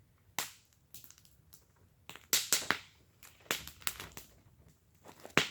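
Wood fire in a fire pit crackling, with irregular sharp pops and snaps, a quick cluster of loud ones a little past the middle and another sharp pop near the end.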